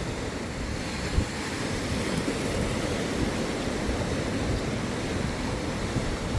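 Sea surf washing on the beach, a steady rushing wash with wind buffeting the microphone. A brief low thump about a second in.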